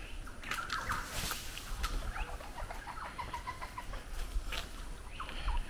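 Several birds calling: scattered short chirps and quick whistled sweeps, with a run of rapid short notes in the middle.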